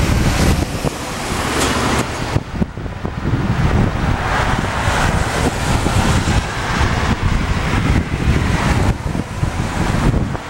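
Rushing jet-engine noise from a Boeing 737-800's CFM56 turbofans, swelling through the middle, under heavy wind buffeting on the microphone.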